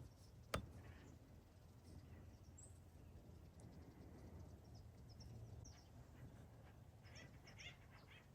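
Faint outdoor quiet with a single sharp click about half a second in, then a few faint, short bird chirps near the end over a low steady hum.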